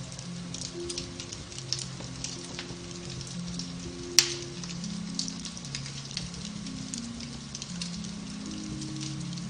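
Beech-wood fire crackling in a fireplace: scattered small snaps over a soft hiss, with one loud pop about four seconds in. Soft, slow background music with low held notes plays underneath.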